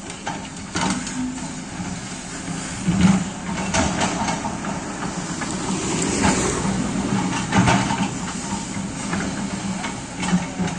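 Backhoe excavator's engine running steadily, with a handful of sharp knocks and scrapes from the working machine.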